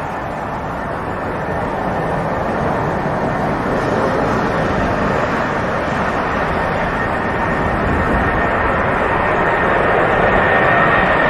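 Boeing 747 jet engines at takeoff power: a steady rush of jet noise that grows gradually louder, with a high whine coming in near the end.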